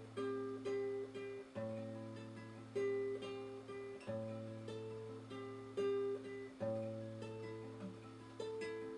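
Acoustic guitar introduction to a bard song: a slow fingerpicked pattern of ringing notes over a low bass note that changes about every two and a half seconds.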